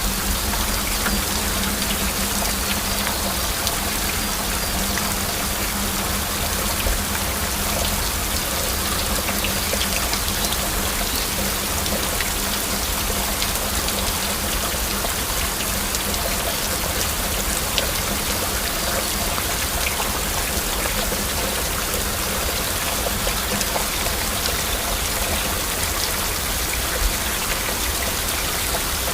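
Steady heavy rain, a dense even hiss with many individual drops ticking through it.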